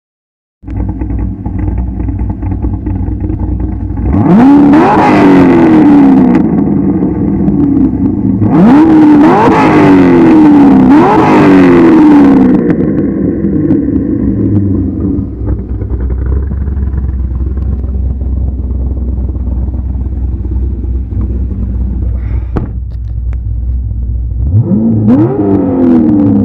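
C6 Corvette Z06's 7.0-litre LS7 V8, with aftermarket heads, cam, long-tube headers and a B&B Bullet exhaust, idling loudly with a lumpy cam idle and revved in sharp blips about four times, the pitch shooting up and dropping back each time.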